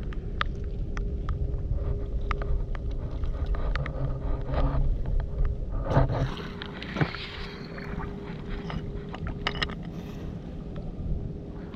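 Scattered sharp clicks of stones and shards being turned over on a river foreshore, over a low steady drone with a constant hum, louder for a few seconds about halfway through.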